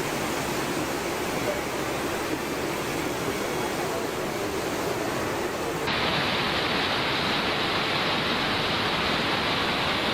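Rushing floodwater, a steady dense rush. About six seconds in an edit switches to a slightly louder, duller stretch of the same kind of water noise.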